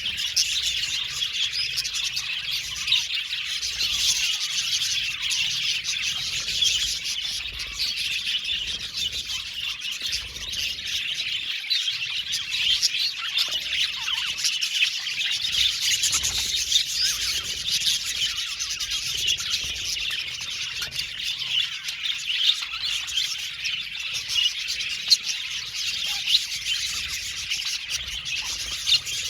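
A flock of budgerigars chattering and chirping together, a dense, continuous stream of overlapping warbles and short chirps.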